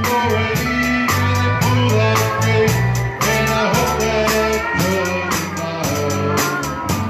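Texas Czech band playing live, with a steady beat, a bass line and held melody notes, and a voice singing along.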